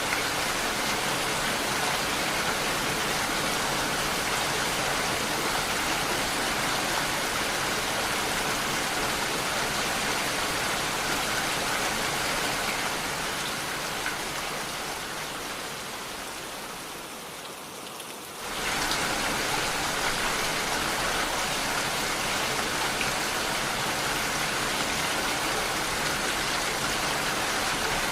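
Steady rain. It fades down gradually for several seconds past the middle, then cuts back in abruptly at full level about two-thirds of the way through, like a splice in a looped rain recording.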